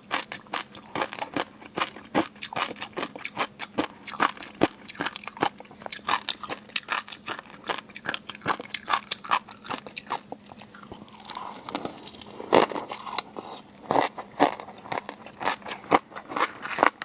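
Close-miked seafood eating: chewing and biting with a rapid stream of crisp, sharp clicks and crunches, a few fuller, wetter chews about two-thirds of the way through.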